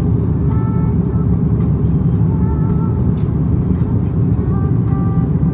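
Airliner cabin noise: a steady, loud low rumble of engines and airflow, with faint snatches of distant voices over it.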